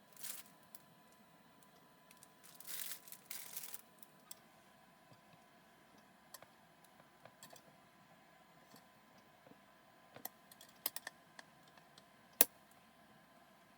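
Scattered light clicks and a few brief rustling scrapes, like small objects being handled, with the sharpest click near the end.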